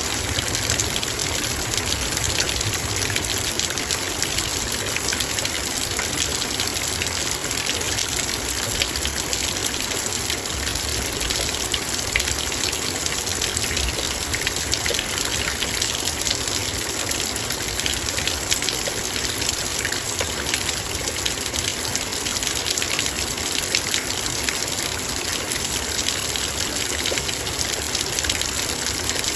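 Heavy rain falling steadily on a metal bowl: a dense, even hiss of rain with countless small drop ticks on the metal.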